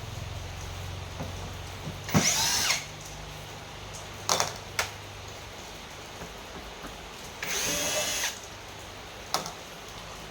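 Electric screwdriver or drill-driver motor whirring in two short bursts, each under a second, about two seconds in and again near the end, with a few sharp clicks in between.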